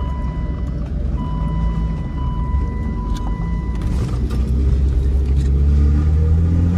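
Car engine heard from inside the cabin while driving, pulling harder with its pitch rising over the last couple of seconds. A steady high tone sounds over it for the first few seconds, breaking off briefly about a second in.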